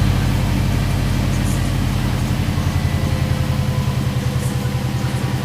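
Subaru WRX's turbocharged flat-four engine idling through an aftermarket exhaust, with a steady pulsing beat, easing down a little in the first second or two as it settles to idle.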